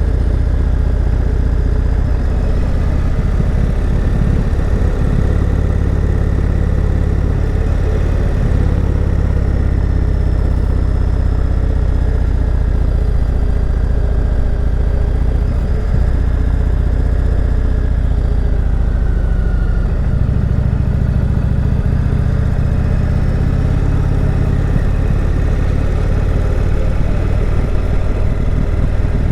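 Indian Chieftain Dark Horse V-twin motorcycle running steadily while riding, its engine note shifting about two-thirds of the way through.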